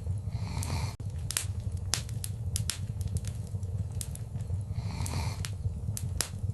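Wood fire crackling, with many sharp pops over a low steady rumble and two brief hisses, one under a second in and another about five seconds in.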